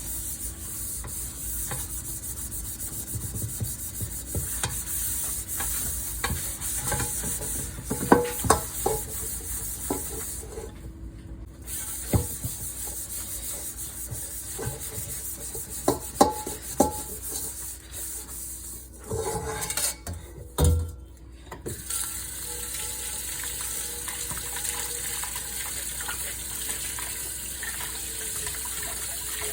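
Dishes and a pan being washed by hand: a steady scrubbing hiss with scattered clinks and knocks of dishware. The hiss stops briefly about a third of the way in, and again for a few seconds about two thirds in, where the louder knocks come.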